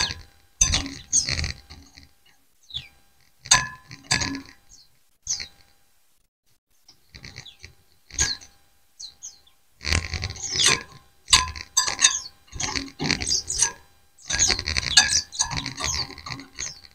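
A flock of white-eyes (pleci) chirping and calling back and forth in irregular bursts, with short pauses between. Low rumbling sits under the louder bursts.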